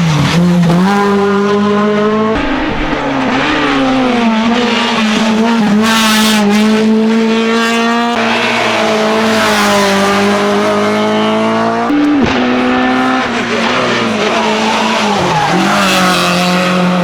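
Hill-climb race car's engine held at high revs, with brief drops in pitch at the gear changes: near the start, about two seconds in, about twelve seconds in with a sharp crack, and near the end.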